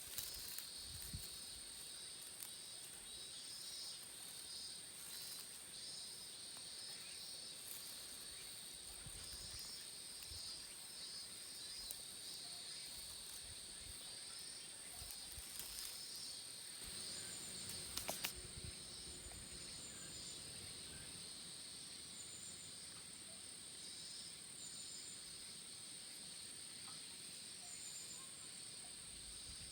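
Outdoor insect chorus: one high, steady trill with a second, pulsing insect song a little lower. Scattered faint clicks and taps sound over it, with a sharper tap about 18 seconds in.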